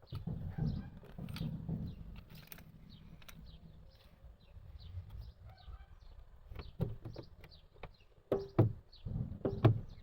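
A few sharp knocks and clicks, loudest in the last two seconds, over faint bird chirping, with a low rumble in the first couple of seconds.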